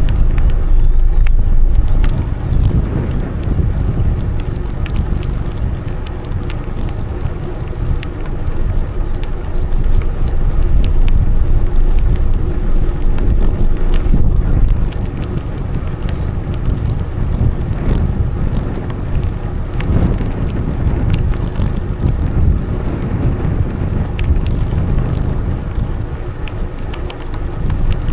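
Steady ride on a bicycle along a cycle path: a continuous low rumble of tyres on the path mixed with wind buffeting the microphone, with a few faint ticks.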